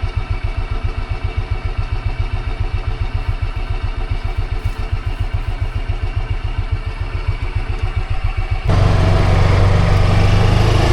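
Small engine idling with an even low thumping. About 9 s in it cuts abruptly to a louder, steadier low engine-and-motion noise.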